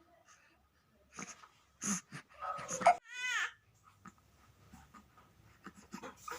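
A baby fussing and babbling in short cries, with one loud, high squeal that falls in pitch about three seconds in.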